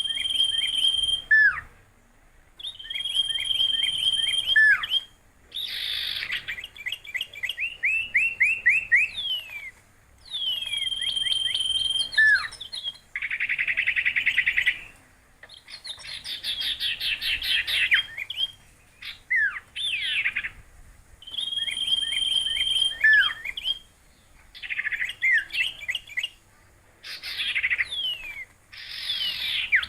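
A songbird singing in repeated phrases with short pauses between them: a held high whistle ending in quick down-slurred notes, alternating with fast rattling trills.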